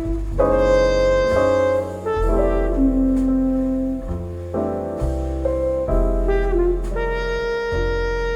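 Instrumental music played back through a tube amplifier and hi-fi speakers: a horn plays held melody notes, changing about once a second, over piano and deep bass notes.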